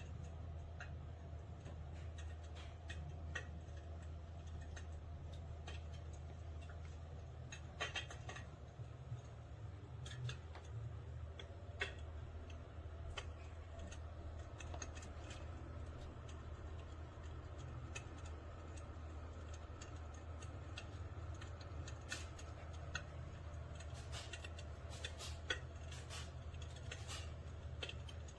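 Simulated fire crackling from an electric fireplace insert's built-in sound effect: irregular sharp snaps and pops, a few louder than the rest, over a steady low hum.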